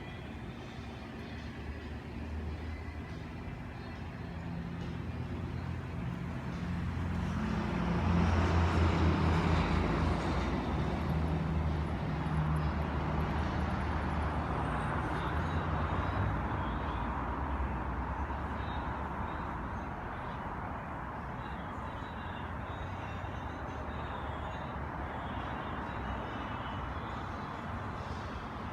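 Indian Scout motorcycle's V-twin engine running. It swells louder for a few seconds about a quarter of the way in, then settles to a steady run.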